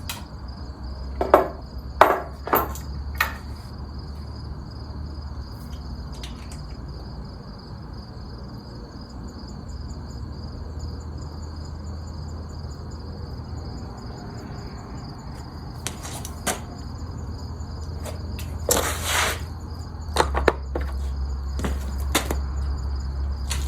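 Steady high-pitched trilling of insects, like crickets, over a low hum, with a few sharp knocks and clicks near the start and again toward the end, including one longer rattle.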